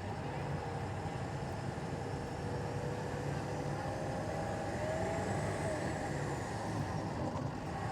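Truck engine working under load as it pulls a weight-transfer sled down the track. The engine note holds steady, climbs about halfway through, then falls away.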